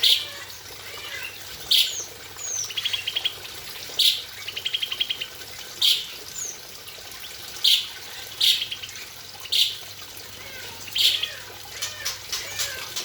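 Caged birds calling in an aviary: loud short calls every second or two, two rapid trills in the first half, and many small chirps, over steady running water where the birds are bathing.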